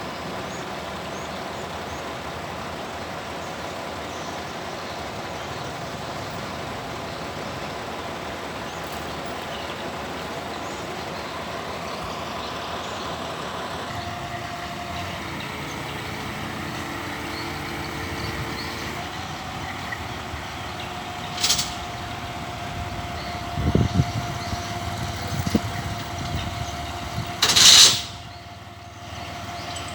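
Excavator's diesel engine and hydraulics running steadily, with a held whining tone through the second half. Near the end come a few low thumps and two short hissing bursts, the second the loudest.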